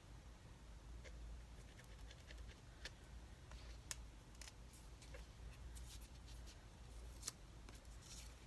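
Faint scattered clicks and snips of paper being handled and worked at a craft desk, over a low steady hum.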